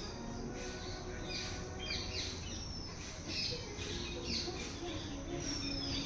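Birds chirping: short, high chirps that slide downward, about one or two a second, over a steady low background noise.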